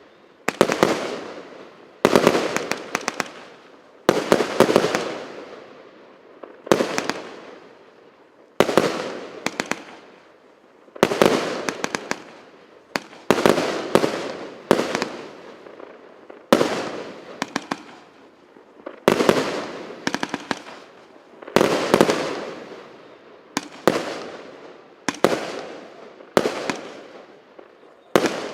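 RS777 consumer fireworks cake of 128 one-inch shots firing in sequence: a sharp bang about every second or so, each followed by a fading crackle, some shots coming in quick pairs.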